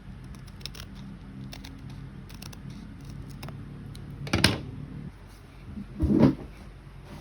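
Handling noises during a small-electronics repair: a few light clicks, then two louder knocks about four and a half and six seconds in, over a low hum that stops about five seconds in.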